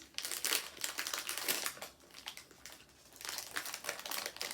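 Plastic snack-cake wrapper crinkling as it is handled and opened. The crinkling comes in two spells, with a short lull a little after two seconds in.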